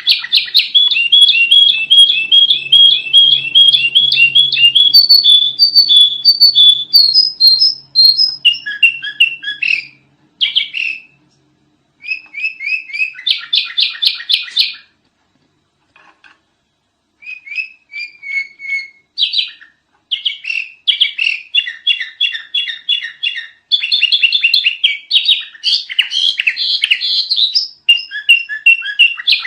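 Sooty-headed bulbul (kutilang) singing loud, fast strings of chirps and whistled notes. There is a pause of about two seconds around halfway, then the chattering phrases resume.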